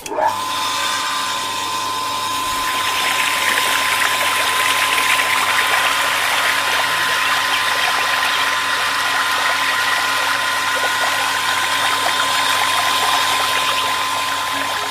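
A small electric motor running steadily, with a constant high whine over a rattling buzz.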